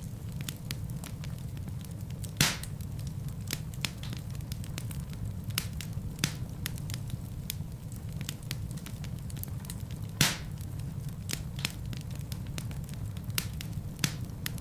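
Wood fire burning in a fireplace: a steady low rumble of flames with irregular crackles and sharp pops from the logs, two of them louder, about two seconds in and about ten seconds in.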